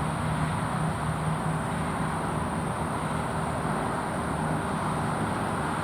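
Steady low mechanical hum over an even hiss, with a faint unchanging high-pitched tone above it.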